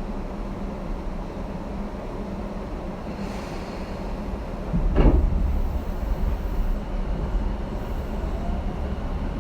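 Cabin sound aboard a Tobu 10080 series commuter train: a steady low rumble, a brief hiss, then a sharp thud about five seconds in, typical of the doors closing. Afterwards the low rumble grows stronger as the train begins to move off.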